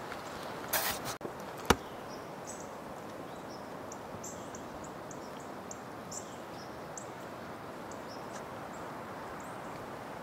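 Birds giving short, high chirps again and again over a steady background hiss. Near the start there is a brief rustle and then a single sharp click.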